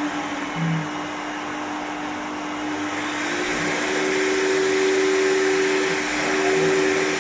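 Blow dryer running steadily, blowing air through a cat's coat. A second, higher hum joins about three seconds in, and it grows slightly louder.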